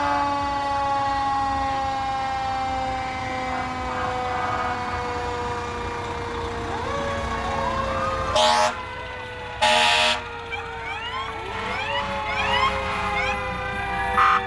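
Fire truck sirens: one winds slowly down in pitch the whole time while others wind up over it again and again. Two loud short horn blasts cut in about eight and ten seconds in.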